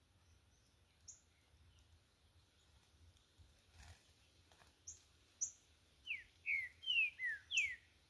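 Songbirds calling: a few short high chirps, then near the end a quick run of five loud whistled notes, each sliding downward.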